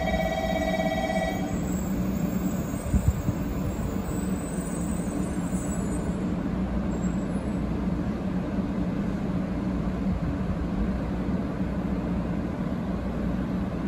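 500 Series Shinkansen pulling slowly in along the platform: a steady low rumble of the running gear, with a few short thumps about three seconds in. A steady electronic tone cuts off about a second and a half in.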